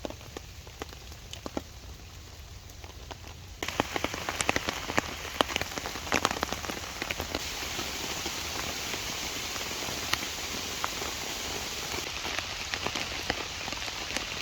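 Steady rain, with many separate drops striking close by. It grows suddenly louder and denser about three and a half seconds in.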